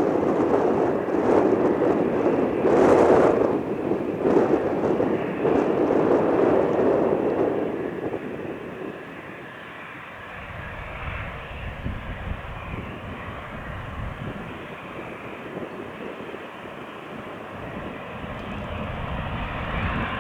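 Jet noise from an Airbus A330-343's Rolls-Royce Trent 700 turbofans on takeoff. It is loud for the first seven or eight seconds, then falls away to a lower, deeper rumble that swells a little again near the end.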